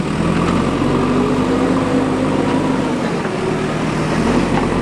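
Diesel engine of a JCB 3DX backhoe loader running steadily under work, its pitch rising and falling gently once partway through.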